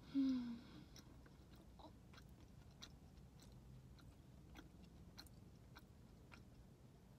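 A person chewing soft Texas toast with the mouth closed: faint wet clicks at uneven intervals. Near the start there is a short hum of the voice, falling in pitch and the loudest sound.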